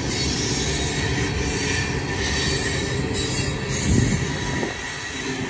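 Loaded coal cars of a freight train rolling past close by: a steady rumble of steel wheels on the rails, with one brief louder burst about four seconds in.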